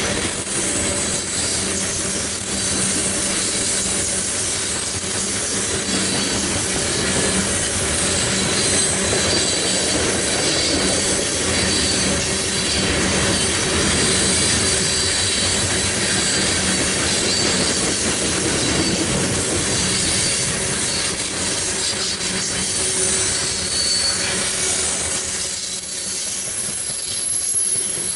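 Train cars rolling past on steel rails in a steady rumble, with high-pitched wheel squeal coming and going over it.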